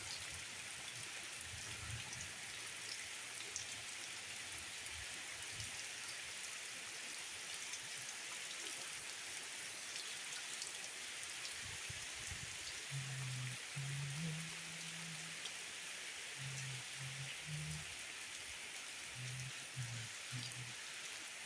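Rain falling steadily, an even hiss of drops on surfaces. In the second half a few short, faint low-pitched tones sound beneath it.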